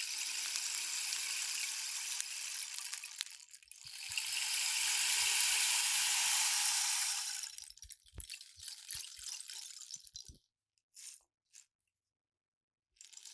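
Rain stick being tilted, its pellets pouring down inside with a rain-like hiss. A second, louder pour swells and fades about four to seven seconds in, then breaks up into scattered ticks of the last pellets, with a couple of seconds of silence near the end.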